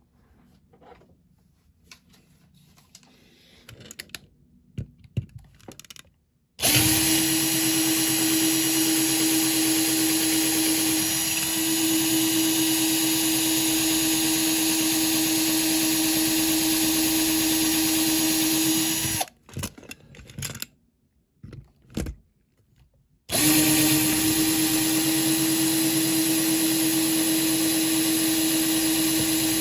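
Small electric drill drilling out the rivets of a diecast model car's base. After a few faint handling clicks it starts about six seconds in and runs at a steady pitch for about twelve seconds, stops, then starts again for the last six seconds.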